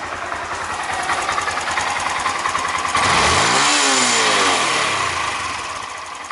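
Honda Grom JC61's 125cc air-cooled single-cylinder four-stroke engine idling, a little low but steady. About three seconds in, the throttle is blipped once and the revs rise and fall back to idle.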